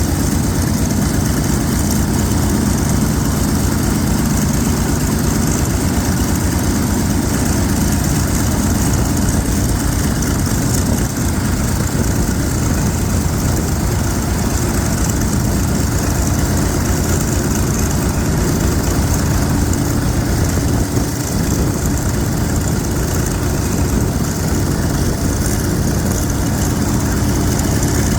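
Vought F4U Corsair's 18-cylinder Pratt & Whitney R-2800 radial engine running steadily, its dense firing pulse and level pitch unchanged throughout.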